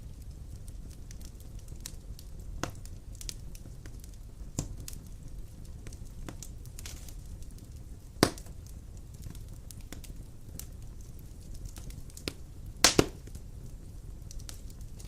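Large wood logs burning in a fireplace: a steady low rumble of the flames with scattered crackles and a few sharper pops, one about eight seconds in and a quick double pop near the end.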